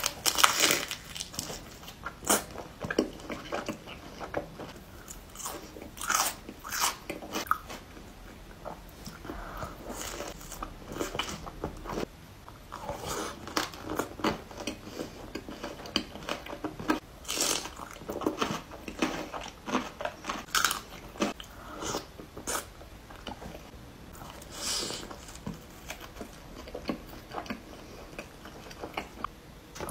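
Crunchy bites and chewing of a pita stuffed with lettuce and feta: irregular crunches throughout, the loudest bite about half a second in.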